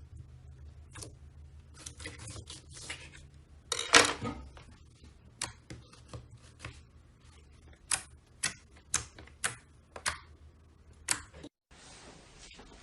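Slime being squeezed and poked by hand, giving sharp sticky clicks and pops as air pockets burst. There is a louder, longer squelch about four seconds in, then a run of crisp pops about half a second apart near the end.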